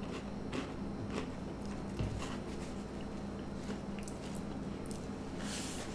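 Close-up chewing of crunchy Teddy Grahams honey graham cracker bites, with a few small crunches and clicks. Near the end a paper napkin rustles.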